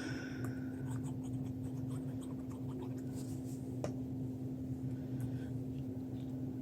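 Light scratching, rustling and small ticks of paper being handled and worked on a craft desk, over a steady low hum.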